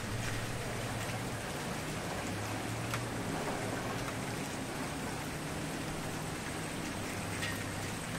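Wood fire burning: a steady hiss of flames with scattered small crackles and pops, a sharper pop about three seconds in and another near the end.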